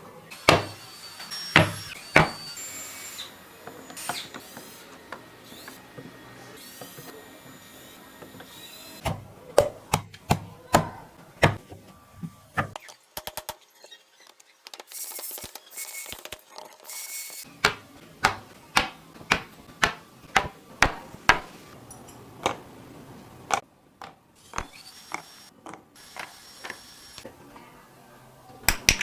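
Workshop knocks and taps on wooden parts, in runs of about one to two a second, with a short high, noisy burst near the middle.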